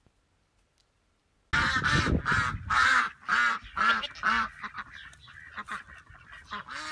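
An animal giving a rapid series of loud, repeated calls, about two to three a second, starting about a second and a half in and growing fainter after about three seconds.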